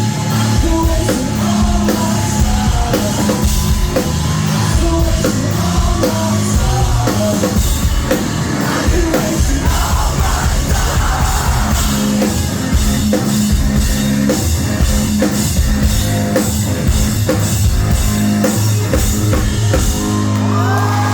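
Live rock band playing loud, with a drum kit and singing, heard through a phone's microphone in the room.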